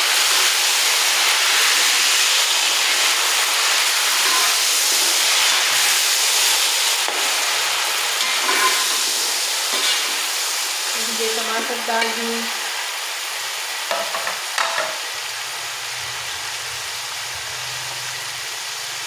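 Tomatoes and browned onions sizzling in hot ghee in an aluminium pot as they are stirred with a metal slotted spoon, with a few clinks and scrapes of the spoon against the pot. The sizzle is loudest at first and slowly dies down.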